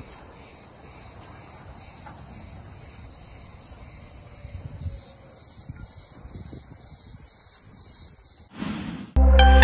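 Steady high-pitched insect drone over a low, uneven rumble in the open air. Music starts just before the end.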